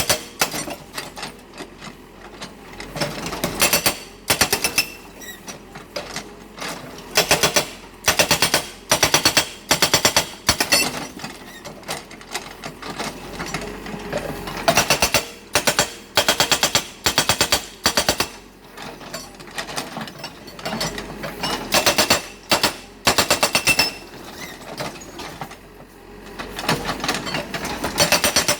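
GB90TL hydraulic breaker with a 90 mm chisel, mounted on a CAT 424B backhoe loader, hammering in short bursts of rapid blows. The bursts come about once a second, with a few pauses of a couple of seconds between runs.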